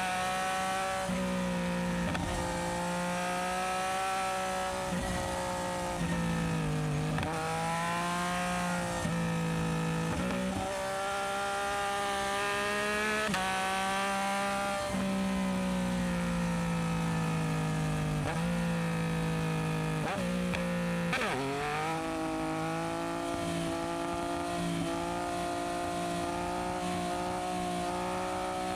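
Yamaha MT-09SP's three-cylinder engine through an aftermarket Dominator exhaust, heard while riding. Its pitch climbs and drops back again and again as the bike accelerates, changes gear and rolls off the throttle.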